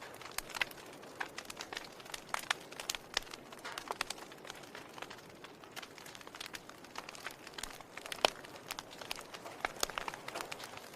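Burning wood crackling: irregular snaps and pops over a soft hiss, with one sharper pop a little past the middle.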